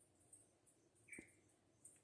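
Near silence: faint woodland ambience with high-pitched insect chirping repeating a few times a second, and one short, slightly louder chirp just after a second in.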